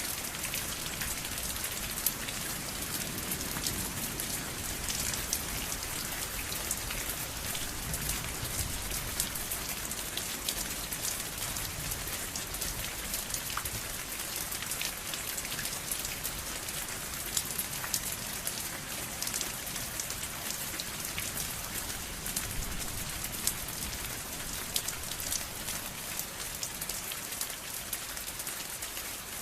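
Steady rain falling, a dense hiss with many distinct drops ticking on a surface, a few louder single drops standing out.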